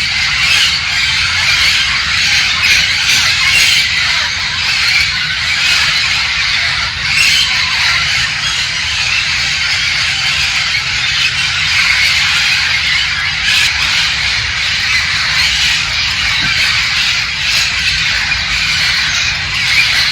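A flock of wild parrots squawking continuously, many harsh calls overlapping into a dense chatter, with a low rumble underneath.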